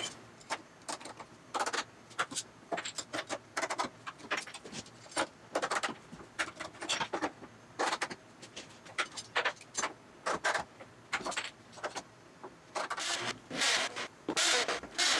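Woodworking clamps being handled, set and tightened: irregular short clicks and knocks. From about two-thirds of the way in come longer scraping, rubbing sounds.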